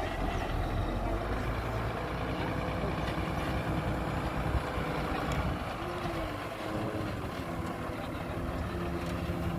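Heavy diesel construction machinery running steadily: a continuous low engine drone with a steady hum above it.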